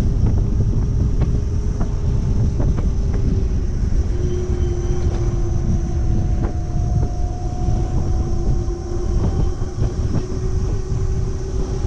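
Wind buffeting the microphone of a rider on a moving Monday Motorbikes Gen7 electric moped, a dense low rumble. Under it runs a steady whine from the moped's electric drive, its pitch sagging slightly partway through.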